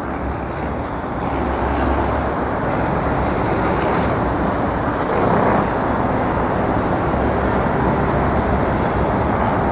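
Steady engine rumble with a deep hum that swells over the first couple of seconds and then holds.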